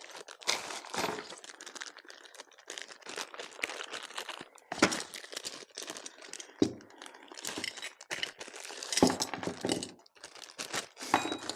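Plastic packaging crinkling and rustling as heater parts are unwrapped and handled, with scattered clicks and a few louder knocks.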